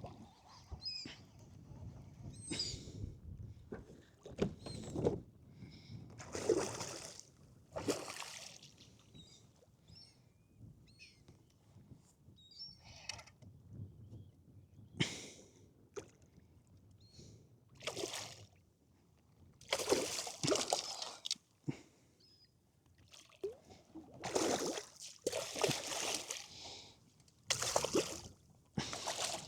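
Water splashing and sloshing at a kayak in irregular short bursts, with light clicks in between.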